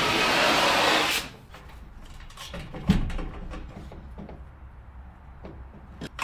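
A loud, steady hiss of spraying air or water cuts off abruptly about a second in. Quiet clicks and knocks follow, with one louder knock about three seconds in.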